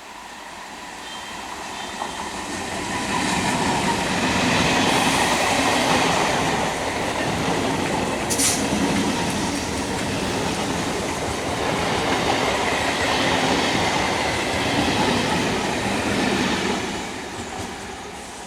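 Electric multiple-unit local train passing at speed with rail noise and wheel clatter. The sound builds over the first few seconds, stays loud, and fades near the end. About eight seconds in there is a brief sharp high-pitched squeal or hiss.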